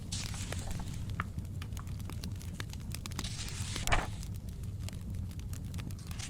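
Wood fire crackling steadily over a low rumble, with a paper book page being turned near the start and again about three to four seconds in, the second turn the loudest sound.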